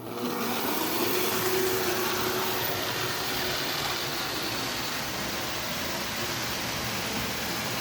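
Marx Happi Time toy electric train with its 4-6-2 locomotive, running in reverse on its track: a steady motor hum with wheels and cars rattling over the rails. It starts at the very beginning, with a faint whine that rises a little as it picks up speed.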